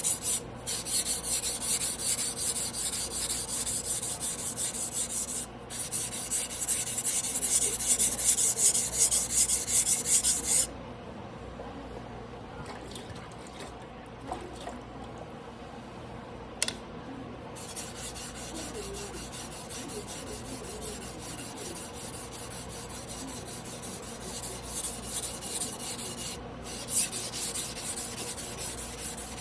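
Tojiro Damascus blue-steel yanagiba blade being stroked back and forth by hand on a wet whetstone: a fast, steady rasping scrape. About ten seconds in the strokes turn much quieter, with a single click in the middle, then continue softly.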